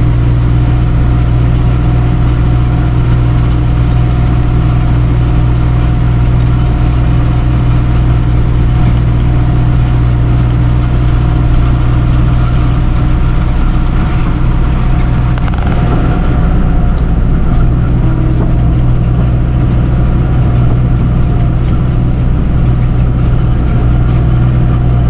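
Tractor engine running steadily under load while pulling a twine-tying round baler through windrowed hay, the baler's pickup and chamber working along with it. A brief clatter and a slight change in the engine sound about 14 to 16 seconds in.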